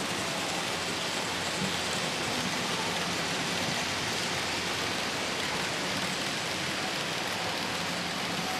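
Steady rushing hiss of HO-scale model trains running on a large exhibition layout, with a faint low hum underneath.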